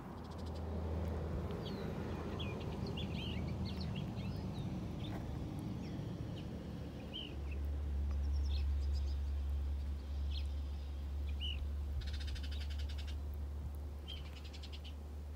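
Wild birds chirping in short, scattered calls, with a brief buzzing trill twice near the end, over a steady low rumble.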